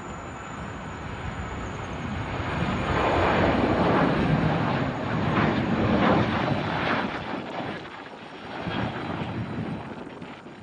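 Airplane passing close by, its engine noise swelling to a peak a few seconds in and then fading away.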